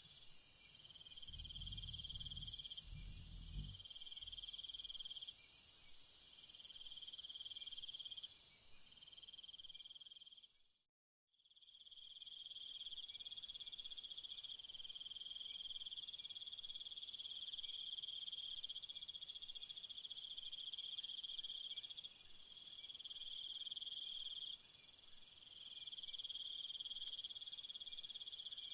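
Night chorus of crickets and other insects: several steady trills at different pitches, one coming in long pulses a second or two each, over a thin high buzz. About eleven seconds in, the whole chorus fades out to silence for about a second, then fades back in. A brief low rumble sounds in the first few seconds.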